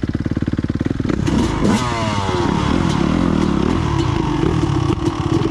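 Dirt bike engines idling with an even, fast beat, then revving up and down from about a second in as the bikes pull away, with engine notes rising and falling over one another.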